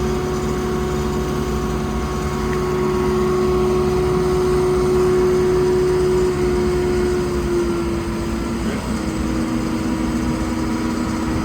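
A boat engine running steadily, with its pitch stepping down twice in the second half as the throttle eases off.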